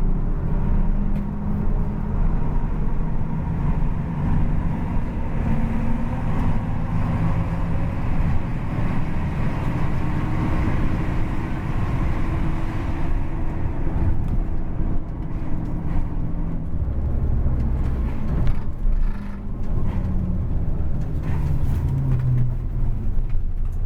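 Intercity bus's diesel engine running through a loud aftermarket racing exhaust, its note rising and falling gently with the engine's speed.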